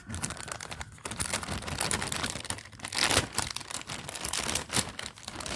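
Crinkling and rustling of plastic packaging being handled, in irregular crackly bursts.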